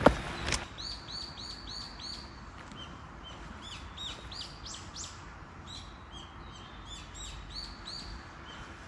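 Small birds calling: a long run of short, high chirps that each drop in pitch, repeated in quick series, after a single sharp knock right at the start.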